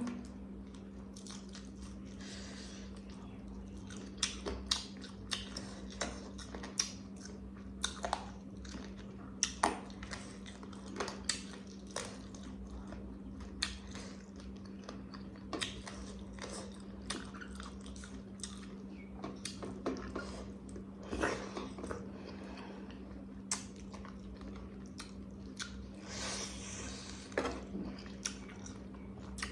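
A person chewing and biting food close to the microphone, with irregular wet clicks and smacks every second or so. A steady low hum runs underneath.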